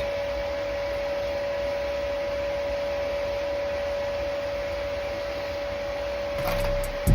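A steady, unchanging electrical whine over a low hum, with a few clicks near the end.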